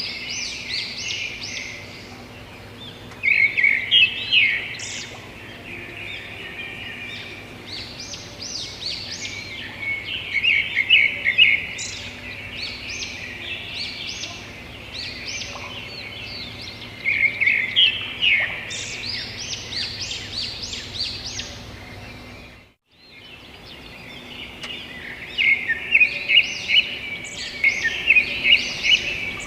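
A chorus of birds chirping and trilling, with rapid high notes in repeated louder bursts. The sound cuts out completely for a moment about three quarters of the way through, then resumes.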